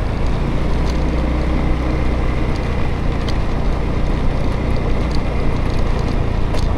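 Motorbike engine running steadily while riding along a road, with a continuous low rumble of engine and road noise.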